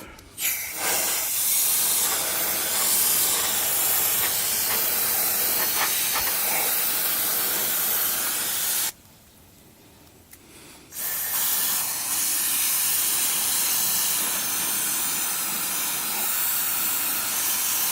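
Aerosol can of foaming coil cleaner spraying onto air-conditioner condenser fins with a steady hiss, in two long sprays separated by a pause of about two seconds.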